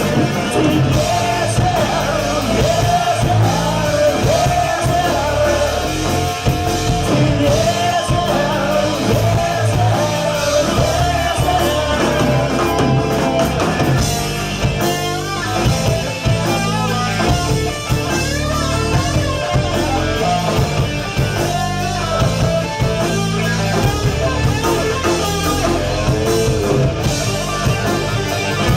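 Live rock band playing: electric guitars, bass and drum kit, loud and steady, with a wavering lead melody over them through the first half.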